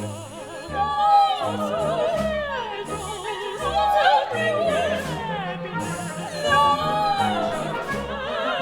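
Operatic singing with wide vibrato over live instrumental accompaniment, with a repeated low note pulsing about twice a second beneath the voice.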